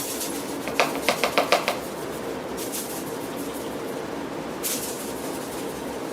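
About six quick clinks of a utensil against a glass quart jar, each with a short ring, about a second in, followed by two brief rustles.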